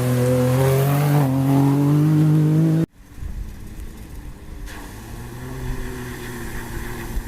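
Racing engine revving, its pitch climbing for about three seconds before the sound cuts off abruptly, followed by a quieter, rough engine rumble.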